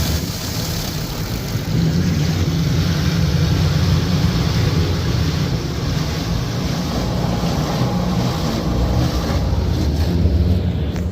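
High-pressure water jets of a touchless automatic car wash spraying against the car, heard from inside the cabin as a steady low rumble with a hiss of spray. The hiss drops away near the end.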